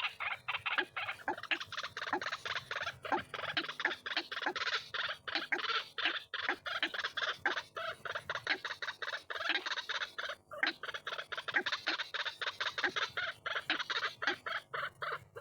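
White-breasted waterhen calling: a fast, unbroken run of short repeated notes, several a second, used as a lure call to draw in waterhens.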